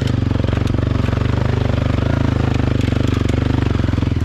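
Off-road vehicle's engine running loud and close at low, steady revs with a fast even throb, the vehicle crawling through a deep rut.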